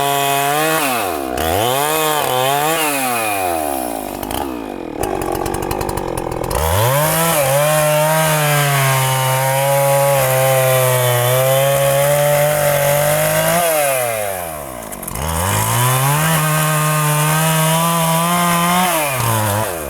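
Two-stroke chainsaw revving up and cutting into a huge tree trunk, held at full throttle for long runs with the pitch sagging under load, and dropping back to a lower speed between runs. There are a few short revs in the first four seconds, then two long cuts, the second starting about halfway through.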